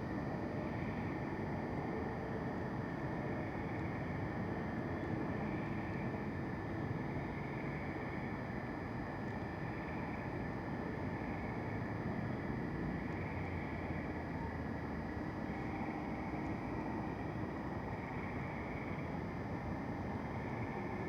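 Steady night-time outdoor ambience: a continuous low rumble, with faint high steady tones above it.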